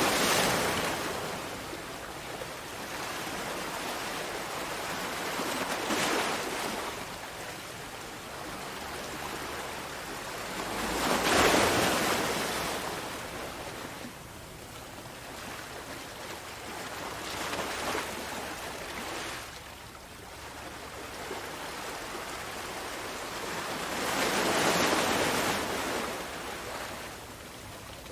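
Sea waves breaking and washing on a shore, with the bigger waves cresting right at the start, about eleven seconds in and again near the end, and smaller ones in between.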